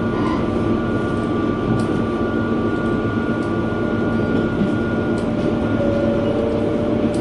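Running noise inside a JR West KiHa 120 diesel railcar under way: a steady engine and wheel-on-rail drone with a few held tones. Faint clicks come every second or two.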